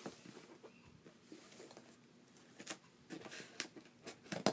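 Faint handling of a cardboard box and its packing: scattered rustles and light clicks, with a sharper knock near the end.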